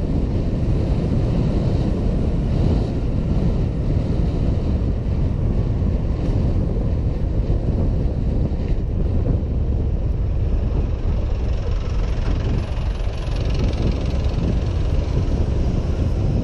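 Steady wind rumble on a helmet camera's microphone while riding a Honda PCX 125 scooter, with road and vehicle noise mixed in.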